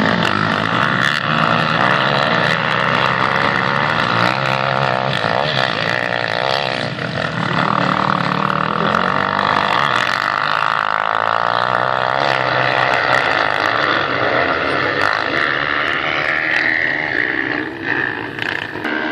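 Racing motorcycle engines running hard at high revs, a loud continuous drone whose pitch wavers up and down as the throttle is worked.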